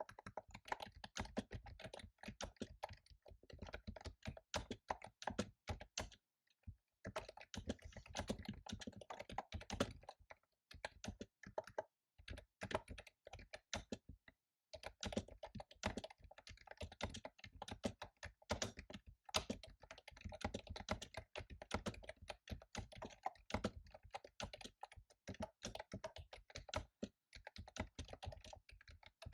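Fast typing on a computer keyboard: a dense run of key clicks, pausing briefly about six seconds in and again around fourteen seconds.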